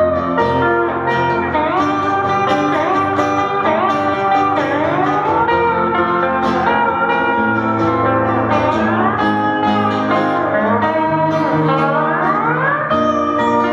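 Band playing an instrumental passage of a rock song, led by a guitar whose notes slide upward in pitch several times over sustained chords and bass.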